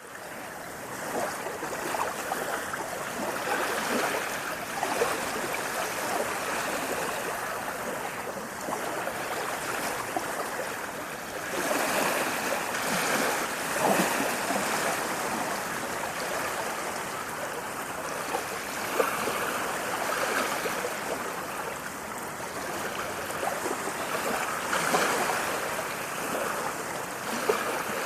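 Running water, like a stream, making a steady rushing, splashing sound that swells and eases in loudness every few seconds.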